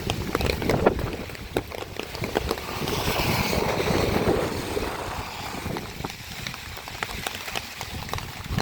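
Wind buffeting the microphone over the steady rush of the flooded, overflowing Mahaweli River, with a swell of hiss rising and fading in the middle.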